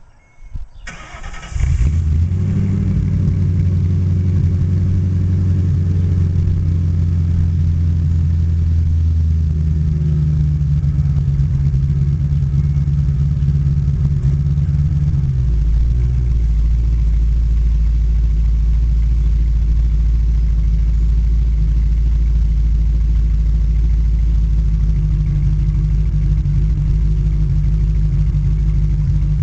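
1994 Mercury Cougar XR7's 4.6-litre V8 with its mufflers cut out and open pipes, cranking briefly and catching about a second and a half in, then idling loudly and steadily. About halfway through, the idle drops to a lower, deeper pitch.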